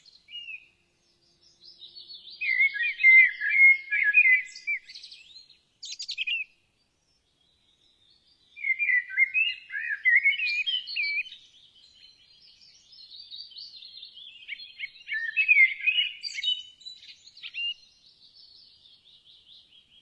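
Songbirds chirping and twittering in quick runs of song, with a pause of about two seconds a third of the way in.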